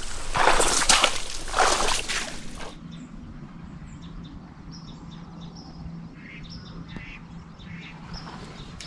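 Loud rustling and brushing noise for the first two to three seconds. It cuts off abruptly, then birds call in the woods: short, high chirps and calls every second or so over a faint steady hum.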